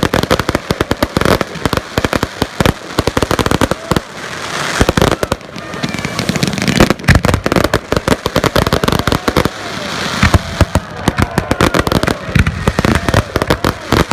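Fireworks display going off, a rapid run of bangs and crackles with hissing and whistling rockets between them.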